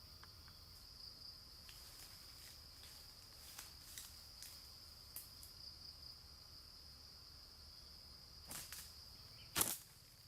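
Insects keep up a steady high-pitched drone, with scattered faint clicks and taps. Near the end come two sharp knocks, the second one the loudest.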